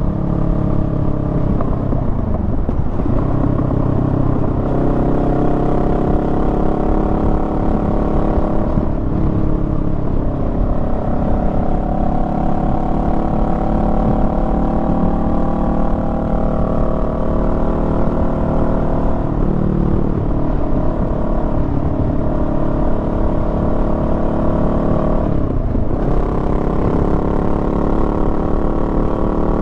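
Honda Rebel 500's 471 cc parallel-twin engine running under way, its note rising and falling with road speed, over a low rumble of wind and road noise. Four times the pitch breaks and jumps to a new level, as at gear changes.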